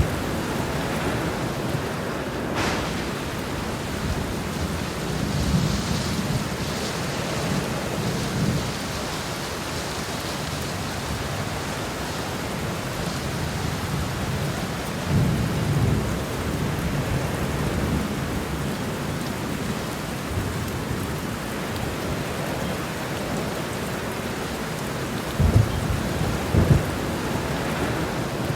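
Heavy rain falling steadily through a thunderstorm, with thunder rumbling low several times and two sharp close cracks of thunder near the end.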